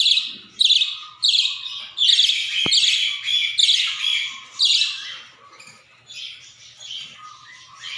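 Budgerigar chattering in a rapid run of short, high chirps and squawks, dropping to sparser, softer calls in the second half. A single sharp click is heard midway.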